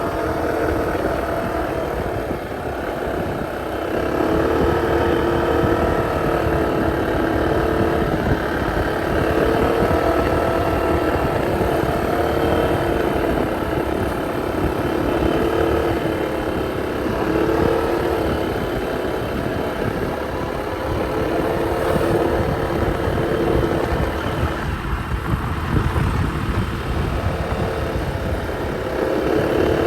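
Motorcycle engine running while riding, its pitch rising and falling as the throttle changes.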